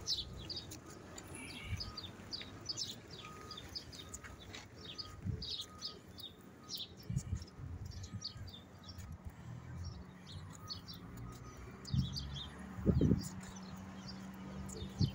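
Small birds chirping, many short high chirps one after another, with a few low thumps. A steady low hum comes in near the end.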